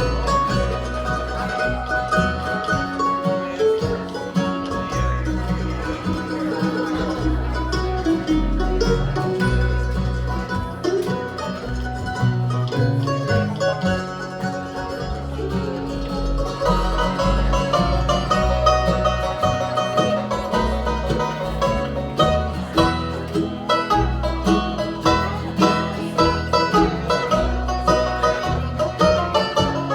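Instrumental break in a country song: plucked string instruments playing the melody over a steady bass line, with no singing.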